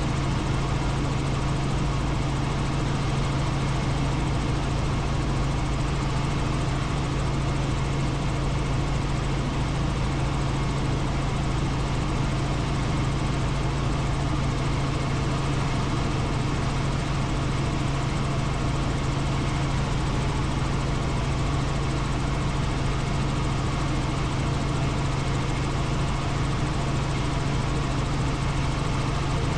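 Helicopter in steady flight: a constant drone of rotors and turbine with a strong low hum, unchanging throughout.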